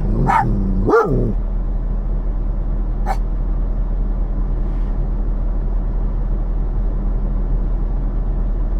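A dog barks twice in the first second and once more, faintly, about three seconds in, over the steady low hum of the semi truck's idling diesel engine.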